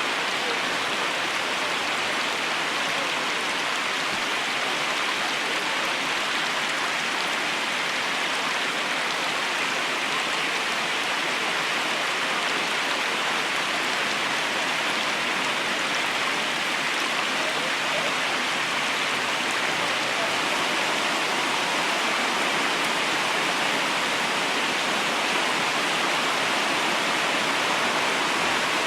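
River water rushing steadily, an even hiss without breaks.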